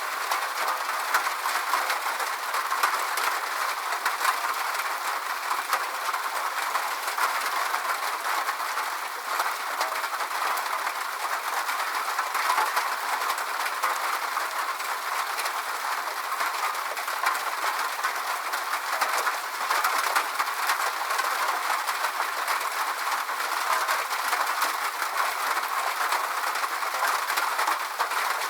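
Steady rain falling: an even hiss of many drops with fine ticks of single drops, and almost no low rumble.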